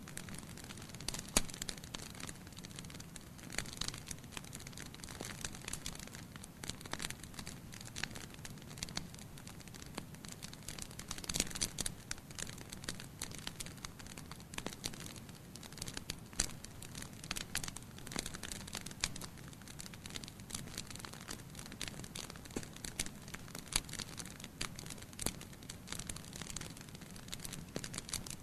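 Wood fire in a fireplace crackling, with irregular sharp pops and snaps over a low, steady rumble of burning. A few pops stand out louder, about a second and a half in and around eleven seconds in.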